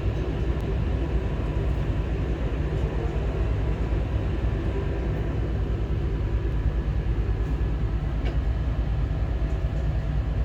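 Steady low rumble of the Vande Bharat Express heard inside a passenger coach, with a faint click about eight seconds in.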